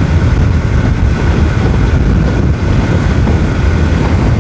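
Motorcycle on the move: steady wind rush on the microphone over the engine's hum and road noise.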